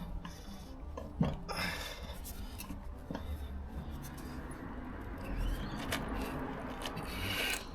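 A few faint metallic clicks and scrapes from a wheel brace working the wheel nuts, mostly in the first two seconds, over a steady low background rumble.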